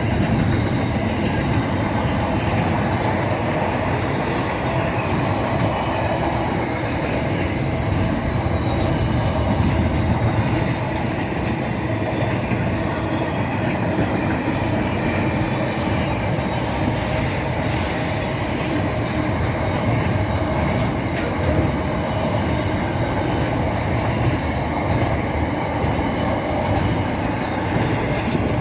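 Train running along the track: a steady rumble with occasional faint clicks from the wheels.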